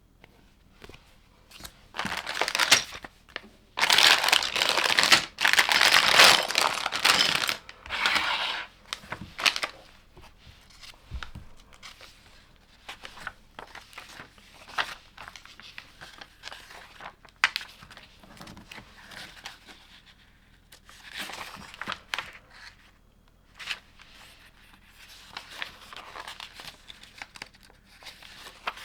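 LEGO set packaging being handled: plastic parts bags crinkling and being torn open, loudest in a run of rustling bursts during the first ten seconds, then quieter rustles and small clicks.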